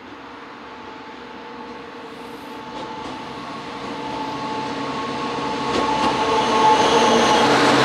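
A DD200 diesel-electric locomotive approaches with its train, getting steadily louder. A steady engine and motor drone with humming tones builds up, and a few wheel clicks come over the rail joints as it nears.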